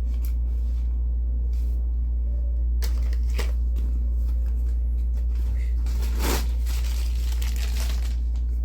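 A steady deep hum throughout, with scattered rustles and clicks of hand tools and a tool bag being handled, the clearest about three seconds in and again past six seconds.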